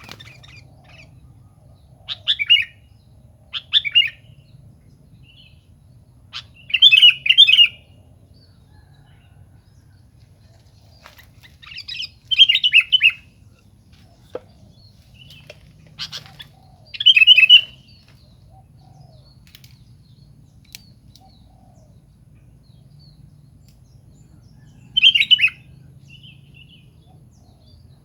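Sooty-headed bulbul (kutilang) calling: six short, bubbly, chirping phrases at irregular gaps of a few seconds, over a faint steady low hum.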